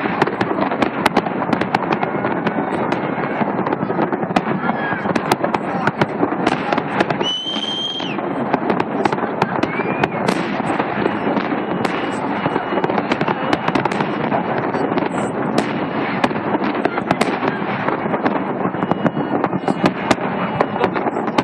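Fireworks salute crackling and popping without pause, a dense stream of sharp bangs over a continuous hiss. About seven seconds in, a brief high whistle sounds over the crackle.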